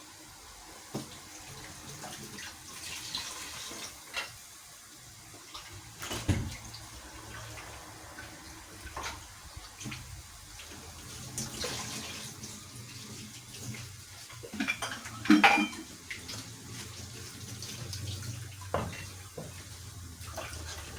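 Cooking pot and utensils clinking and knocking, with water splashing in the pot and several separate sharp clanks, the loudest about two thirds of the way through.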